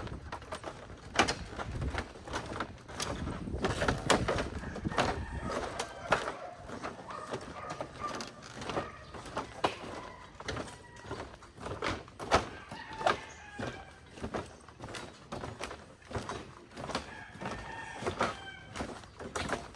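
A rooster crowing a few times, with many sharp knocks and clicks scattered throughout, which are the loudest sounds.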